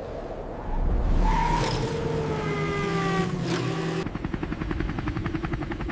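Cartoon sound effects: a car's engine and tyres sliding, the pitch slowly falling as it winds down. About four seconds in, a helicopter's rotor starts chopping fast and steadily.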